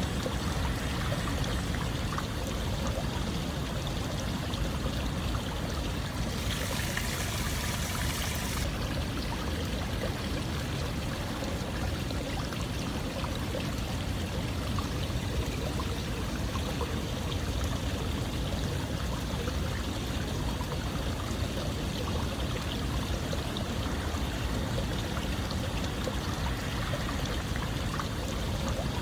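Running water flowing steadily, like a stream, with a brighter hiss for about two seconds around seven seconds in.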